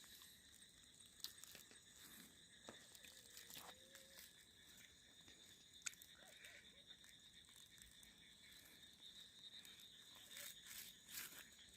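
Near silence at night: faint steady chirring of night insects, with a few scattered faint clicks and rustles.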